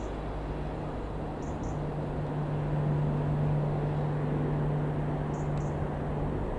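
Rockwell Commander 114B's six-cylinder Lycoming IO-540 piston engine and propeller droning steadily, swelling a little midway. A few faint, short high chirps come in pairs.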